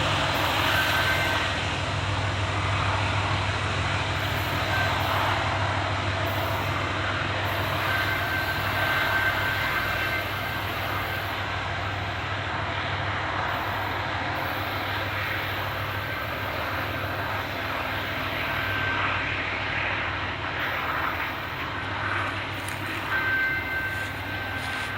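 Train rolling past: a steady rumble of wheels on rail with a low engine hum, and brief high-pitched squeals now and then.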